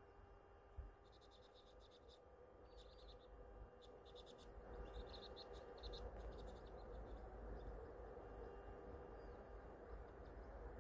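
Faint chirping of small birds, several quick bursts of short high notes during the first half, over a low steady outdoor rumble and faint hum.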